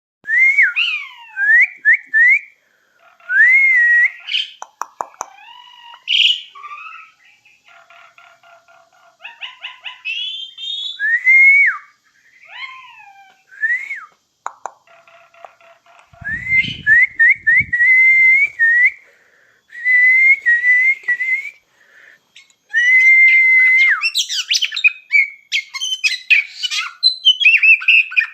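Asian pied starling and oriental magpie-robin calling to greet their owner: loud, clear whistled notes that rise and fall, mixed with quick chattering, becoming denser and harsher near the end. A few low thuds are heard about two-thirds of the way through.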